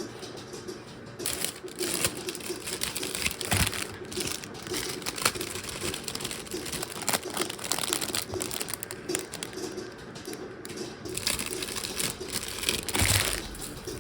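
Rustling and crinkling, as of plastic or paper packaging being handled, with scattered small clicks and knocks. The busiest spells come about a second in, around four seconds and near the end.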